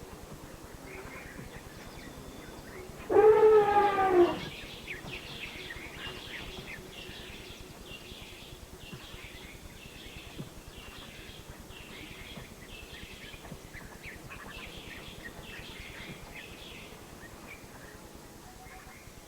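An African elephant trumpets once, a loud call about a second and a half long, about three seconds in. After it, short high chirping calls repeat over a faint background hiss.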